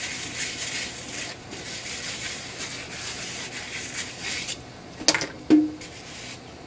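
Rubbing and rustling handling noise for about four and a half seconds, then two sharp knocks about half a second apart, the second ringing briefly.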